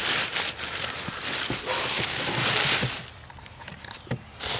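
Rustling and small clattering knocks of things being moved around while rummaging through a box of old toys and dolls. It goes quieter about three seconds in, with one more knock shortly before the end.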